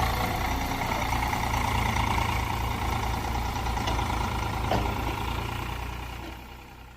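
Diesel tractor engine running steadily, with one short click about three-quarters of the way through; the sound fades out near the end.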